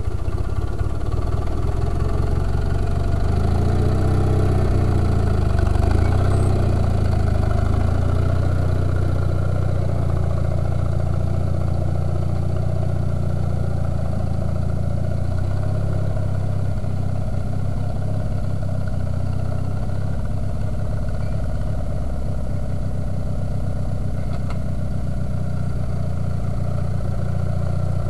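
Sears garden tractor engine running steadily while plowing a garden, its pitch wavering in the first several seconds, then holding even.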